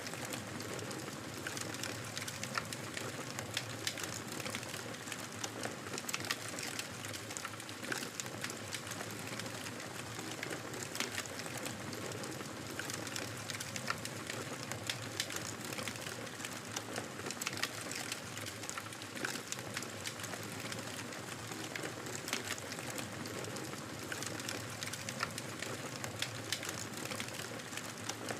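Wood fire crackling in a fireplace: a steady hiss dotted with frequent, irregular sharp pops and snaps.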